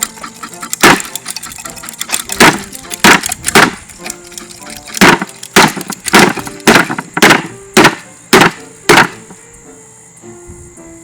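A Mainstays hugger ceiling fan being smashed apart: over a dozen sharp whacks and cracks at an uneven pace, with quieter gaps between.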